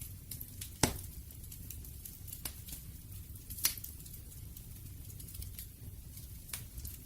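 Campfire crackling: irregular sharp pops and faint ticks over a steady low rumble of burning wood, with one loud pop about a second in and another a little past halfway.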